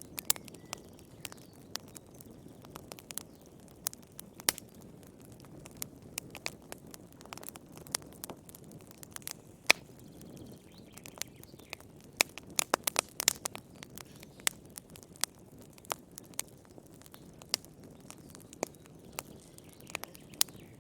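Wood fire crackling in a fireplace: irregular sharp pops and snaps over a soft low rumble, with a quick flurry of pops a little past the middle.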